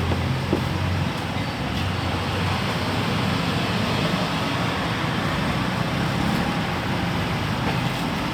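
A steady low machine hum under an even hiss, with no distinct strikes or changes.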